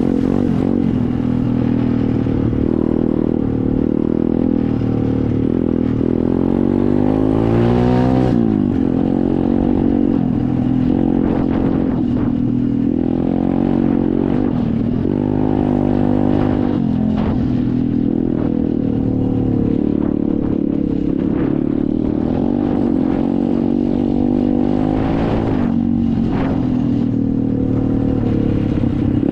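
SSR 125 pit bike's single-cylinder four-stroke engine running under way, revving up sharply about eight seconds in, again about halfway, and once more near the end.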